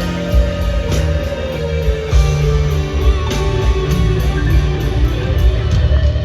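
Live concert music heard from the arena floor: a band playing an instrumental passage, with guitar to the fore over drums and bass and a steady ticking cymbal, with no singing.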